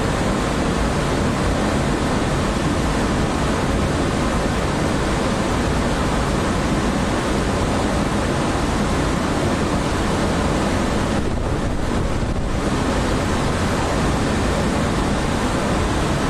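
Steady rumble and hiss of a Greater Anglia Class 755 unit standing at the platform, running while it waits to depart.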